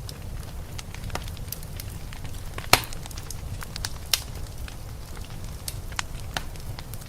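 Wood fire crackling in a fireplace: scattered irregular pops and snaps, two louder ones about a third and a half of the way through, over a steady low rumble.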